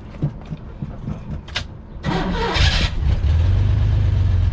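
1983 Chevy S10 Blazer's carbureted six-cylinder engine cranking for about two seconds, then catching with a loud burst of revs and settling into a steady idle. It has fresh plugs and wires, and the owner is almost sure of a burnt intake valve on cylinder 4.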